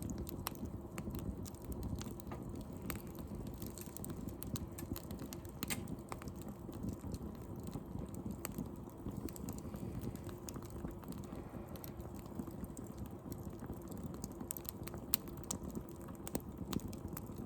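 Wood fire in a fire pit crackling, with irregular small snaps and pops over a steady low rustle of the flames; one pop near the end stands out louder.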